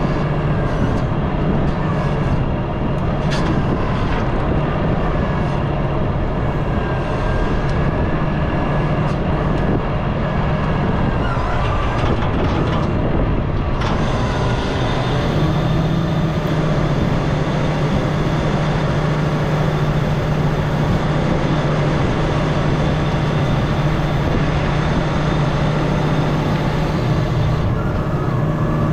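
Diesel excavator carrying a hydraulic grapplesaw, engine and hydraulics running steadily with a strong low hum and a few light knocks and clicks.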